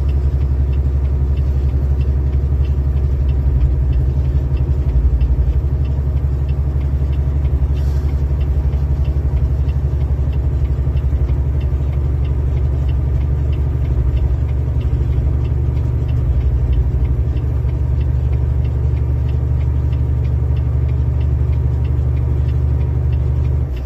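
Heavy truck's diesel engine running under load on a mountain grade, heard inside the cab: a steady low drone with fast, even engine pulses.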